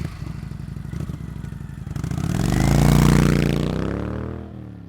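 Motorcycle engine running, rising in revs and loudness to a peak about three seconds in, then easing off and fading away.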